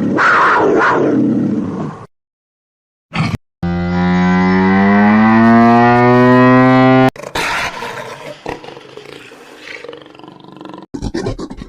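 A series of animal calls with short gaps. About three and a half seconds in comes one long, low call lasting about three and a half seconds, slowly rising in pitch and cutting off suddenly; rougher, broken calls follow.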